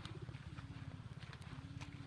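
Pigeons cooing: three low, drawn-out notes, some sliding slightly downward, over a steady low rumble with scattered sharp clicks.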